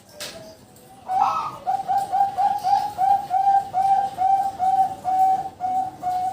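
Zebra dove (perkutut) cooing: from about a second in, a long run of short, mellow notes at one steady pitch, about three a second.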